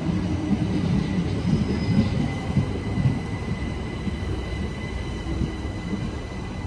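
South Western Railway electric multiple-unit train running past the platform, its wheels rumbling and clattering on the track, fading as the last carriage clears. A steady high whine sounds under it.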